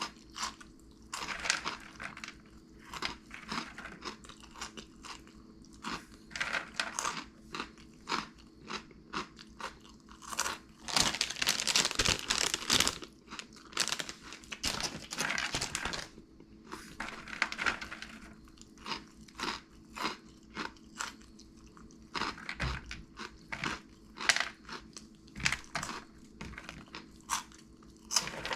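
Close-up crunching and chewing of crunchy Cheetos puffs, a run of sharp crackling bites, loudest and densest about eleven to thirteen seconds in.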